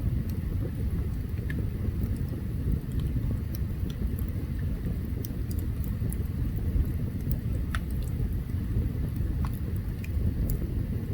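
Open campfire burning: a steady low rumble with scattered sharp crackles and pops from the burning wood, one louder pop near the eight-second mark.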